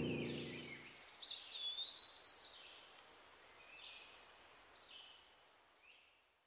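Birdsong: one clear whistled note lasting about a second, rising at its start and then holding steady, followed by a few shorter, fainter chirps, the whole fading out toward the end. A low steady drone fades away in the first second.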